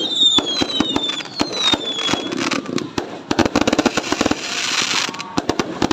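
New Year fireworks going off: a fast, irregular string of pops and bangs, with several whistles falling in pitch during the first couple of seconds and a dense burst of crackling a little past the middle.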